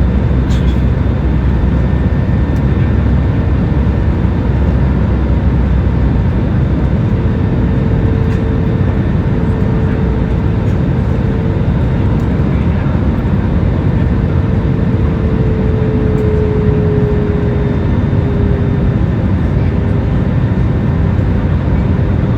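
Airliner cabin noise: a loud, steady drone of engines and airflow, heaviest in the low range, with a faint steady tone that drops slightly in pitch a little past halfway.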